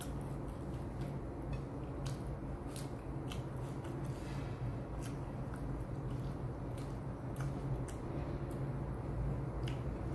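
A person chewing food close to the microphone, with scattered short wet clicks and smacks, over a steady low hum.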